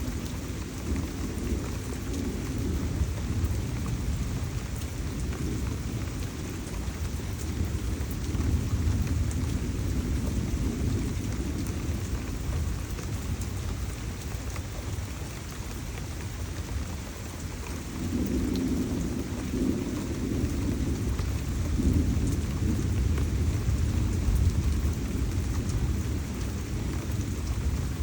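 Heavy tropical rain pouring steadily, with a low rumble underneath that grows louder about two-thirds of the way through.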